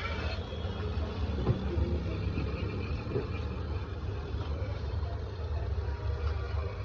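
Toy model motorcycle's simulated engine sound running: a steady low engine-like rumble.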